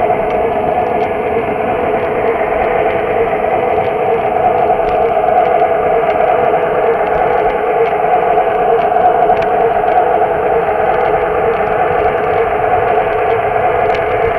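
Lionel O-gauge model train running on Super O track, heard up close from on board: a steady motor whine and wheel rumble, with faint light clicks from the track.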